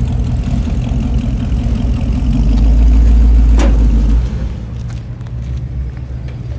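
A car engine running at a low, steady rumble, growing louder about two seconds in and dropping back abruptly at about four seconds. A single sharp click sounds just before the drop.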